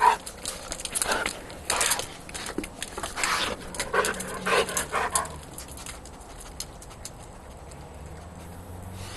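Short animal whimpers in a run of brief sounds over the first five seconds or so, then only faint background.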